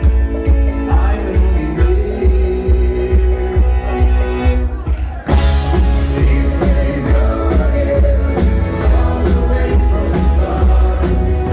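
Live band music: a bluegrass-style rock cover over a steady bass beat. About five seconds in, a sharp full-band accent with a cymbal-like crash hits, and the music goes on fuller.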